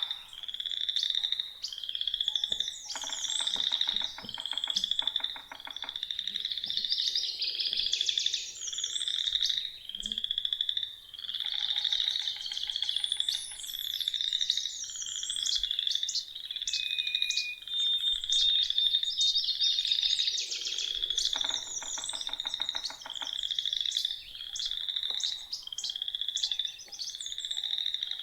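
A spring frog chorus: high trilled calls about one a second, without a break, with a few longer, lower pulsed croaks among them. Songbirds sing over the top.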